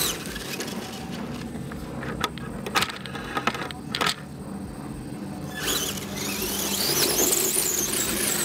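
A 1/10 scale RC off-road truck's motor whining high, its pitch rising and falling with the throttle, after a few sharp clicks and knocks in the first half.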